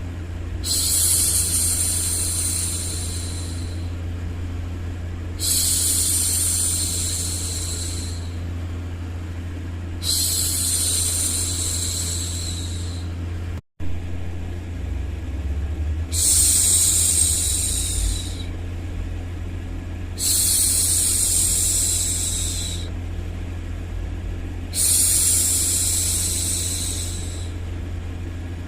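A woman's long shushing "shhh" hushes, repeated six times, each lasting two to three seconds with short gaps, over a steady low hum of white noise, the kind used to soothe a baby to sleep. The sound drops out for an instant about halfway through.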